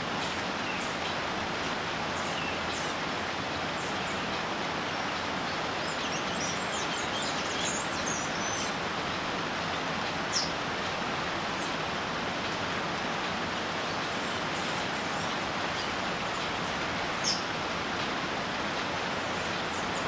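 Steady hiss of outdoor ambience with small birds calling over it: a run of high, thin chirps and twitters about six to nine seconds in, then single sharp high notes around ten and seventeen seconds.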